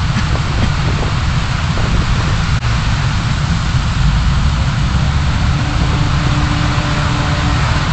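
Steady car engine and road noise heard inside a moving car through a dashcam microphone, with a faint steady hum coming in about five and a half seconds in.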